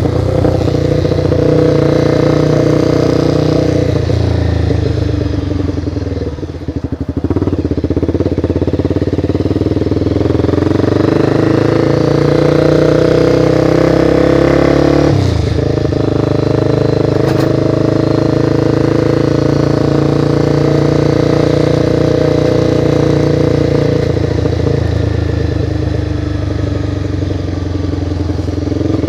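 Honda CBR motorcycle engine running under way. Its pitch sags about five seconds in, climbs steadily for several seconds, then drops abruptly about fifteen seconds in before settling.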